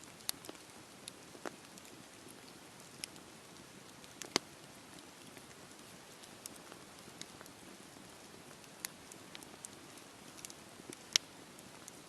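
Wood fire burning in a fireplace: a soft steady hiss with irregular sharp crackles and pops, two of them louder, one a little before halfway and one near the end.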